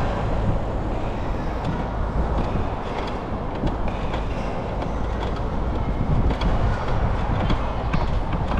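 Steady rumble of a bicycle rolling along a paved path, with wind on the microphone and small scattered rattles and clicks.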